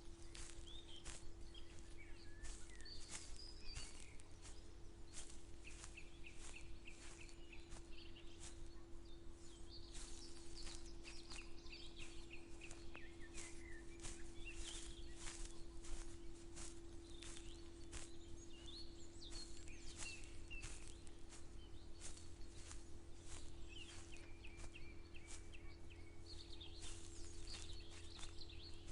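Small birds chirping on and off over footsteps on dry ground, which land about two a second. A steady low hum runs underneath.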